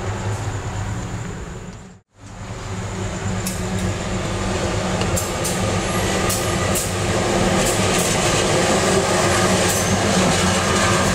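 Passenger train carriage running along the track, heard from inside its toilet compartment: a steady rumble and hum with scattered sharp clicks and rattles. The sound drops out for a moment about two seconds in, then builds back, slightly louder.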